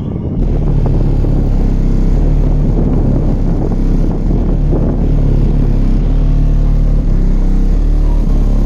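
Bass-heavy music played loud through a home-built 6th-order bandpass car-audio subwoofer: a deep, steady bass line with low notes that shift every second or so.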